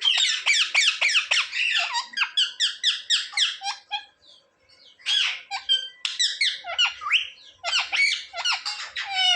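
Ringneck parrot squawking in rapid runs of short, shrill calls, about four or five a second, with a short break about four seconds in.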